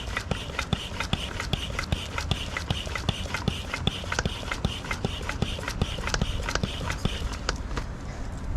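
Hands scrubbing soap lather into a wet dog's coat: fast, even rubbing strokes with sharp wet clicks, about five or six a second.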